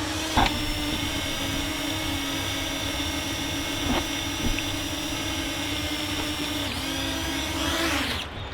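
Parrot Anafi quadcopter's propellers and motors making a steady high buzzing whine as it descends to land, then the pitch falls and the whine cuts off as the motors spin down near the end.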